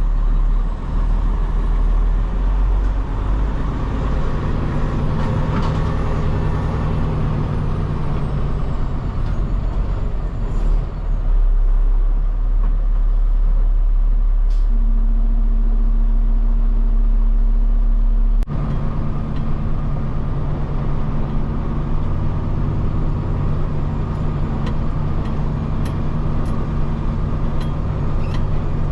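Peterbilt 589 dump truck's diesel engine running steadily, heard from inside the cab. Its note changes suddenly about two-thirds of the way through.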